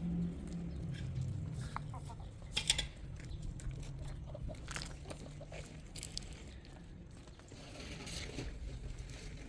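Chickens clucking now and then among scattered knocks and scraping, with one sharp knock about two and a half seconds in.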